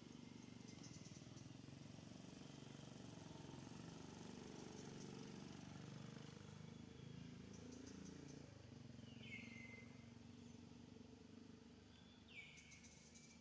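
Faint outdoor ambience with a low steady hum and a few faint high chirps, and a bird giving two short downward-sliding calls about three seconds apart in the second half.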